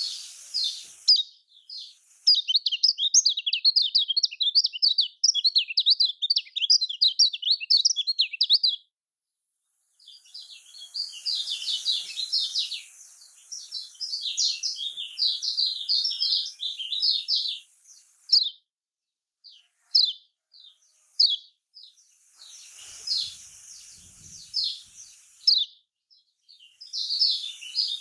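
Lemon-bellied white-eye (kecial kuning) singing: a fast, high twittering song in long runs, with a brief break about nine seconds in, then more spaced, sharp notes in the second half.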